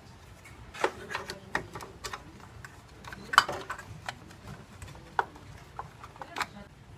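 Irregular sharp clicks and taps of small plastic and metal parts being handled and pushed into place, about a dozen spread unevenly, the sharpest about three and a half seconds in: a new PTC start relay and overload protector being fitted onto a refrigerator compressor's terminals.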